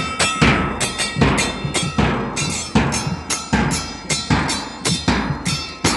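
Music with drums: loud, sharp drum hits with cymbal-like crashes in a fast, driving beat, two or three strikes a second.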